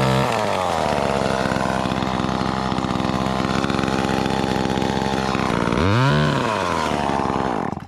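Chainsaw engine running: revs fall from high to idle in the first second, it idles steadily, gives one quick rev up and back down about six seconds in, then cuts off abruptly near the end.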